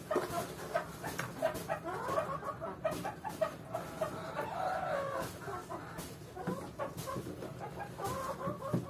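Chickens clucking in many short repeated notes, with one longer call about halfway through and scattered sharp clicks.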